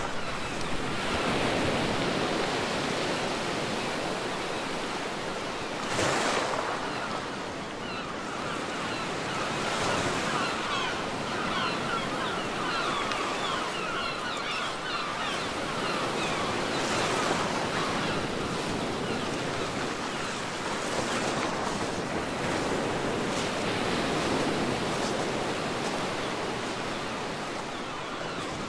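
Ocean waves breaking and washing on a beach: a continuous surf hiss that swells and ebbs, with a louder surge about six seconds in.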